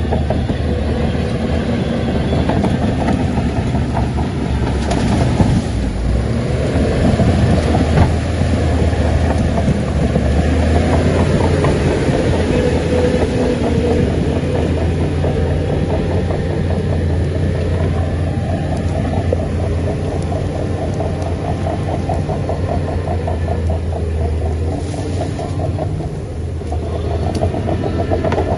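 Shantui crawler bulldozer working: its diesel engine runs steadily under load while the steel tracks clatter in a fast, even rhythm.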